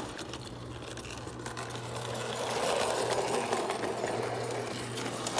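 Lionel 8602 O-scale toy locomotive running, its small electric motor giving a steady whir over a low hum; the whir grows a little louder partway through.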